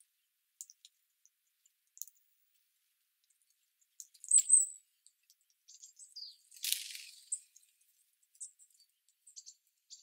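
Small garden birds giving scattered short, high chirps, with a louder high call about four seconds in and a brief noisy rustle a little after halfway.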